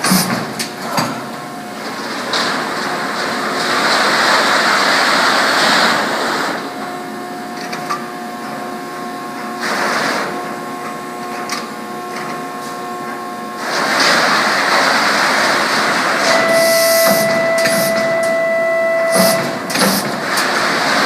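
Whitney 40-ton CNC punch/plasma machine running. Two long stretches of loud hissing alternate with steady whining tones, with sharp knocks about a second in and again near the end.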